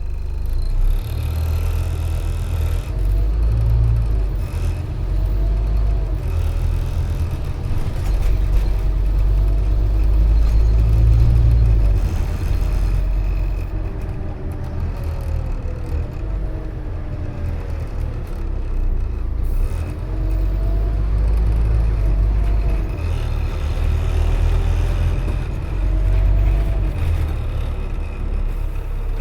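Scania OmniCity N230UD double-decker bus heard from on board: the five-cylinder diesel engine's heavy low rumble, with a drivetrain whine that rises and falls in pitch several times as the bus speeds up and slows down.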